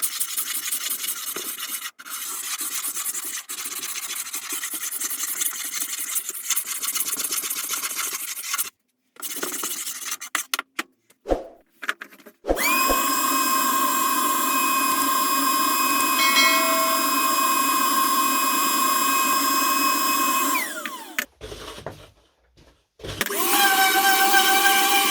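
Scraping, rasping workshop work at first, with short gaps after it. Then a small electric power tool runs steadily with a whine for about eight seconds, spins down with a falling pitch, and starts up again near the end.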